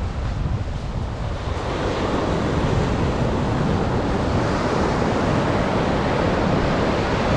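Atlantic surf breaking and washing up a sandy beach, a steady rush of noise that swells about two seconds in, with wind buffeting the microphone.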